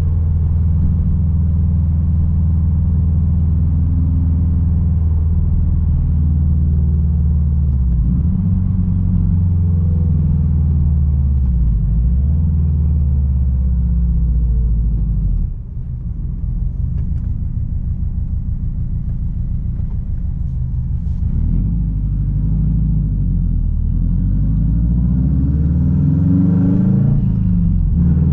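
Straight-piped exhaust of a 2006 Subaru WRX STI's turbocharged flat-four engine while driving: a steady low rumble that dips suddenly about halfway through, then builds back up with the pitch swinging up and down and rising toward the end.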